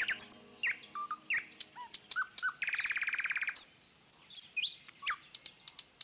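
Bird singing: scattered short chirps and whistles, with a fast trill of rapidly repeated notes lasting about a second near the middle.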